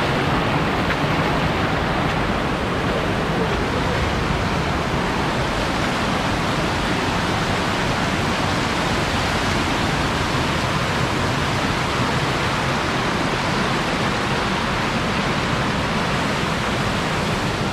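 Steady rush of a waterfall, water pouring into a pool in an even roar of noise with no breaks.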